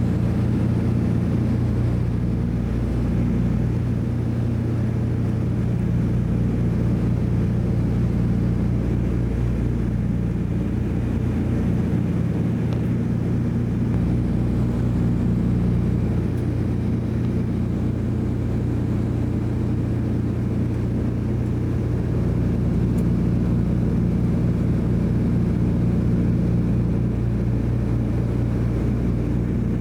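DC-3's twin radial piston engines droning steadily at a constant power setting in level flight, heard from inside the cabin.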